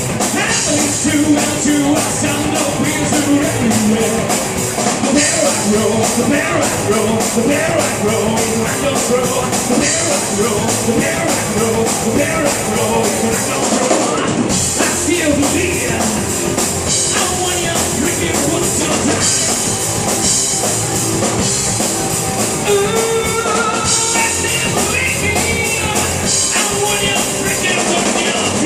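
A rock band playing live, with drum kit and guitar, loud and continuous.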